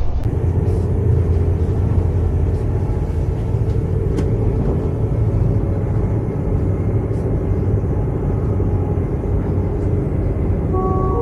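Steady low rumble of a passenger train running, heard from inside the carriage, with a few faint clicks. Near the end an electronic on-board chime begins, the signal ahead of a station announcement.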